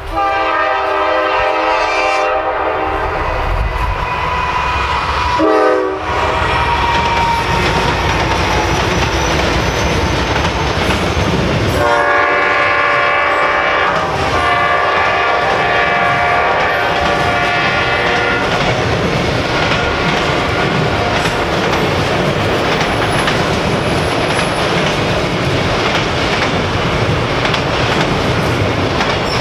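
Freight train locomotive horn sounding several long blasts, strongest at the start and again about twelve to eighteen seconds in. Under and after it, a long string of autorack cars rolls past with a steady rumble and clickety-clack of wheels over rail joints.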